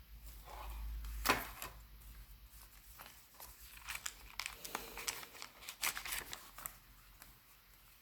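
Paper pages of a small handmade ring-bound journal being turned and handled: crisp paper rustling and crinkling, with a sharp tap about a second in and a run of rustles and clicks in the middle.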